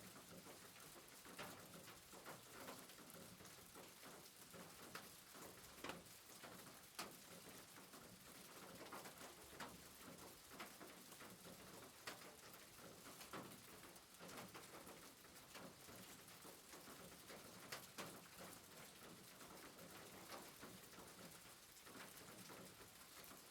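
Very faint soft rain: an even hiss with scattered, irregular drop ticks.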